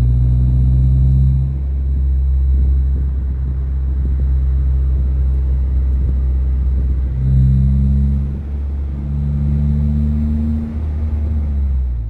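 A car driving: a loud, steady low drone of engine and road noise, its engine note shifting a little about seven seconds in.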